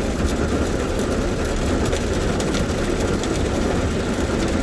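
Automatic rollover car wash machinery working over a parked car, heard from inside the cabin: a steady rushing noise with a low rumble.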